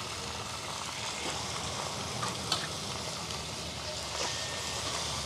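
Raw chicken sizzling in hot oil with browned onions in a kadhai on a gas burner, a steady frying hiss with a few short clinks and scrapes of a metal spatula against the pan.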